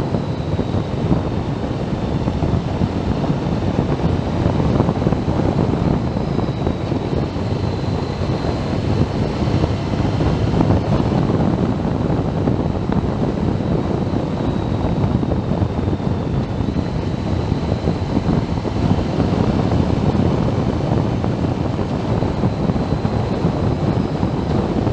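Wind buffeting the microphone on a moving motorcycle, with the bike's engine and road noise beneath it, steady and loud, with a faint high whine that drifts a little in pitch.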